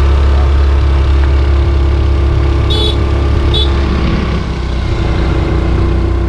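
Car engine running steadily as it pulls up a steep hill road, with a strong low hum throughout. Two short high chirps come about three seconds in.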